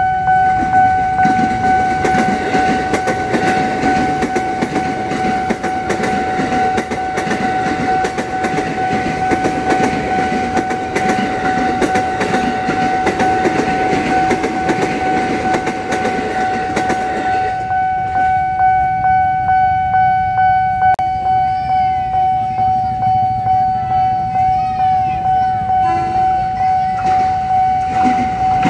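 A JR 205 electric commuter train passing close over a level crossing, its wheels clattering on the rails, for the first seventeen seconds or so. The sound then drops away sharply. Throughout, the crossing's warning alarm sounds a steady high tone that pulses about once or twice a second and carries on alone once the train has gone.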